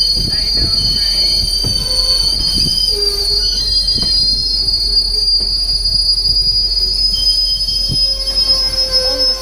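Narrow-gauge train's steel wheels squealing against the rails: a loud, steady high-pitched screech with a few knocks from the running gear, and a second, lower squeal tone joining in near the end.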